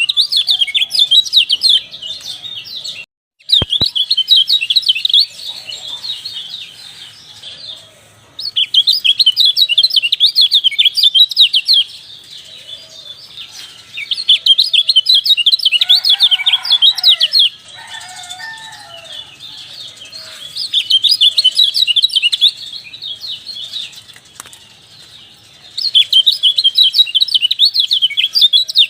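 Kecial (white-eye) singing a fast, high twittering song in loud bursts of a few seconds each, with softer chirping between the bursts. There is a very short gap about three seconds in.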